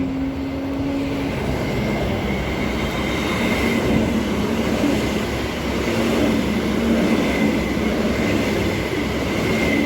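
Transperth electric multiple-unit train passing through the station without stopping, not in service: a steady, loud rush of wheels on rail and traction noise.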